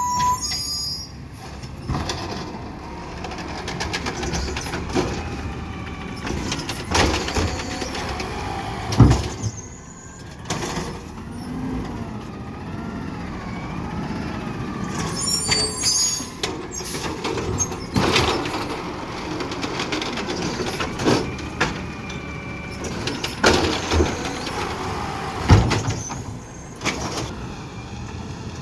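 Garbage truck at work: its diesel engine runs under a wavering whine, with repeated loud bangs and clunks throughout, the loudest about nine seconds in and near the end.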